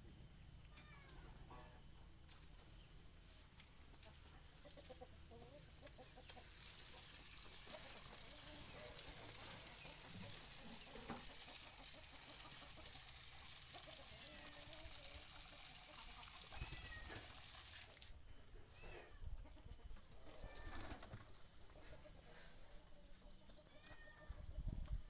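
Chickens clucking, with short calls scattered through. A loud, high, steady hiss starts about six seconds in and cuts off suddenly about eighteen seconds in.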